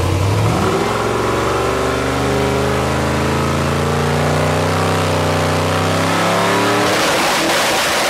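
Newly built, roughly 3,000-horsepower drag-car engine running on a boost test. Its note climbs about a second in and then holds nearly steady with a slow rise. About seven seconds in it breaks into a loud rushing noise.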